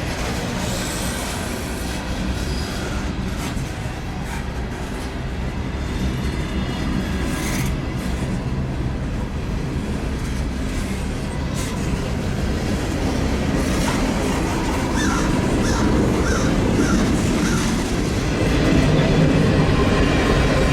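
Norfolk Southern freight train's cars rolling past on the rails in a steady rumble, with brief wheel squeals a little past the middle. It gets louder near the end.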